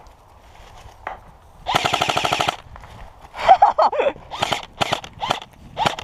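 Airsoft electric rifle firing: a rapid full-auto burst of just under a second, then a string of single shots a little later.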